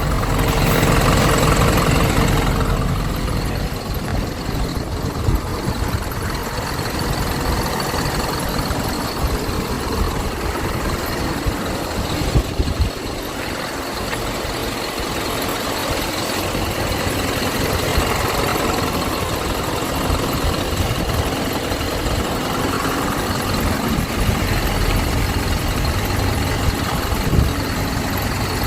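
Parked delivery truck's engine idling steadily.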